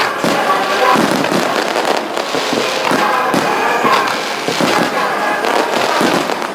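A fireworks display: shells bursting and crackling in quick succession, with music playing along with the show.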